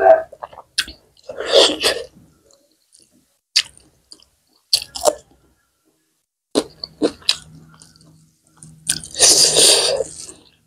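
Close-up mouth sounds of a person eating rice and buffalo-meat curry by hand: wet chewing with scattered crunches and lip smacks. Two longer breathy rushes stand out, one about a second and a half in and a louder one near the end.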